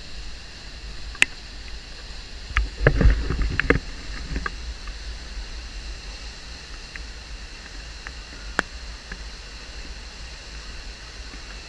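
Steady rushing hiss of falling water from a waterfall, with a low rumble beneath it. A few knocks and clicks cut through, the loudest cluster about three seconds in.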